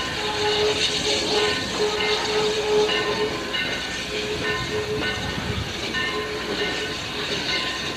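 Railroad cars of the steam train rolling past on the track: a steady rumble and rattle of wheels on rail, with steady tones that come and go.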